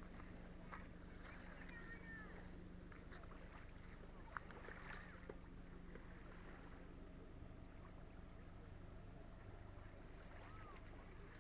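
Faint sounds of a kayak being paddled on a lake: quiet splashes and drips from the paddle. Under them runs a steady low hum, with a few short chirps.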